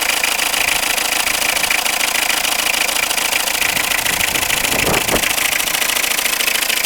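Citroën Berlingo engine idling steadily from a cold start, with a fast, even clatter. A brief low noise sounds about five seconds in.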